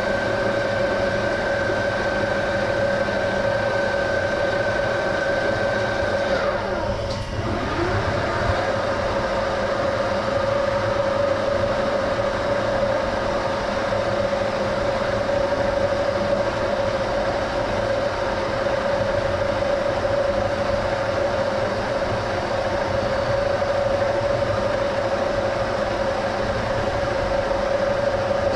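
Metal lathe running at about 90 RPM while thread-cutting copper pipe: a steady drive whine over mechanical running noise. About six seconds in the higher whine stops, and a moment later the machine's note sweeps down and back up before the steady running carries on.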